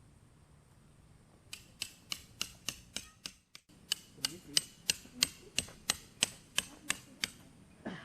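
A run of sharp, evenly spaced knocks, about three a second, starting a second and a half in, with a brief break about halfway.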